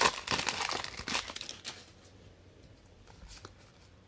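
Plastic trading-card pack wrapper crinkling and tearing for about two seconds, then only faint rustles of cards being handled.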